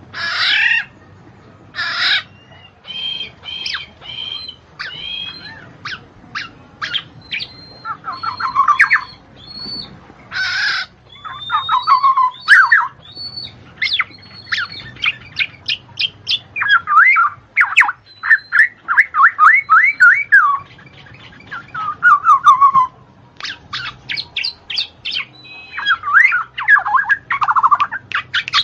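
A songbird singing a long, varied, loud song of sharp chirps, short high whistles and fast runs of repeated downward-sliding notes.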